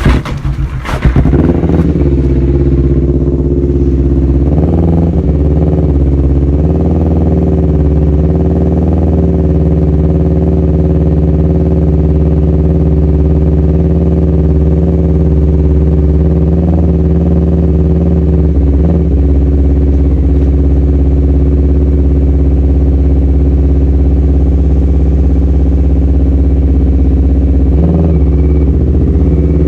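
Honda CBR250RR motorcycle engine running at a steady speed, its pitch holding nearly constant, after a few sharp loud strokes in the first second.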